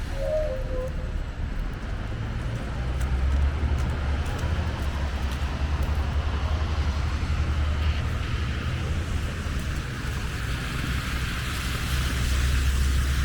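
City street traffic: a steady low rumble with tyre hiss that swells near the end, and a brief short squeak just after the start.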